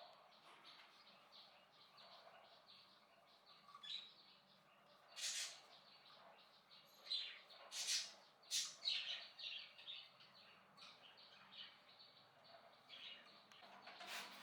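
Faint birds chirping, with a few brief, louder hissing noise bursts about five and eight seconds in and again near the end.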